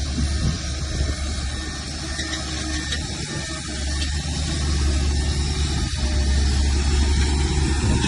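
Heavy diesel engine of earthmoving machinery running with a deep, steady drone that grows louder in the second half.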